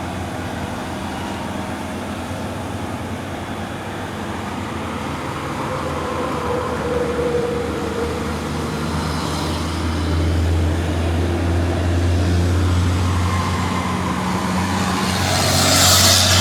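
Aerial lift's engine and hydraulics running with a steady low hum as the boom slowly extends, growing a little louder partway through. A loud hiss comes near the end.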